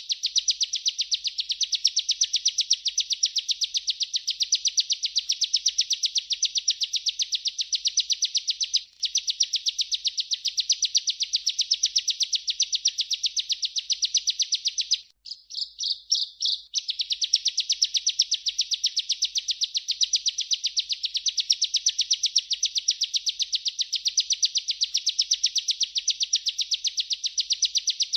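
Bar-winged prinia (ciblek) singing a long, rapid, high-pitched trill in the rolling 'ngerol' style. It breaks briefly about a third of the way in, and near the middle it turns to a few choppier, separate notes before resuming.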